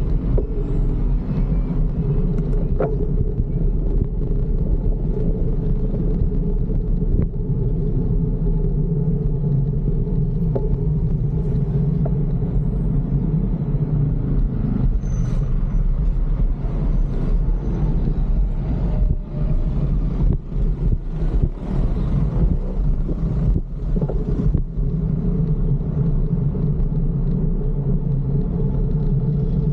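Steady low rumble of wind on the microphone and road noise while riding a fixed-gear bicycle in traffic. A cluster of sharp knocks and rattles comes about halfway through.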